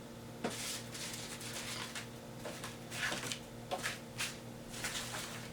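Scrap paper being handled and cut with scissors: a series of short, crisp rustles and snips at an irregular pace.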